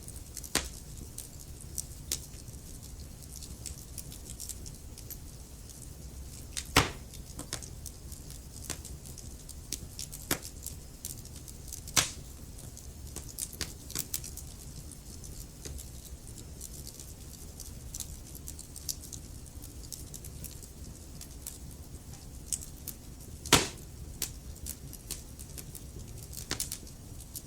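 Wood fire crackling in a fireplace: a steady low rumble of flames under frequent sharp snaps and crackles, with three much louder pops spread through.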